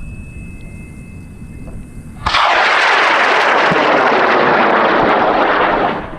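High-power rocket motors firing at launch, one of them an Aerotech M2225: a low rumble, then about two seconds in a sudden loud roar of motor exhaust that lasts about four seconds and cuts off.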